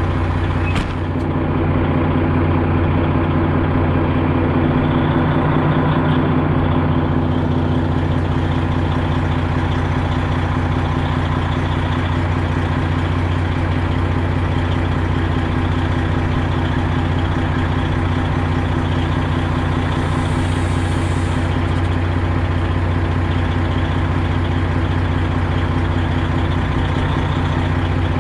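Semi truck's Detroit Diesel Series 60 12.7-litre diesel engine running steadily, with a brief click about a second in.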